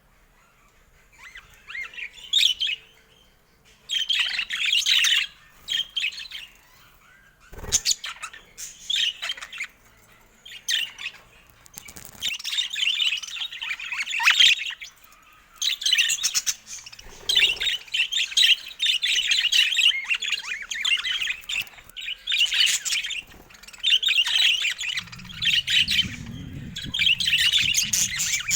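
Budgerigars chattering and warbling in repeated bursts of quick, high chirps. There is a sharp knock about eight seconds in and a low rumble near the end.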